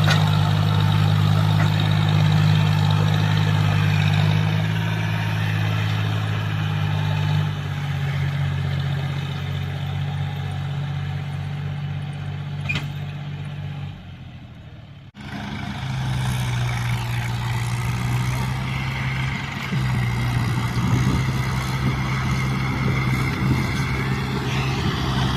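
Diesel tractor engine running steadily at working revs. Its pitch drops about seven seconds in and it fades out around fourteen seconds; after a sudden break a tractor engine runs steadily again.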